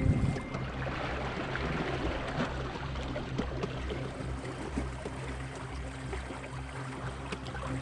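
Water rushing and splashing along the hull of a small boat under way, over a steady low rumble.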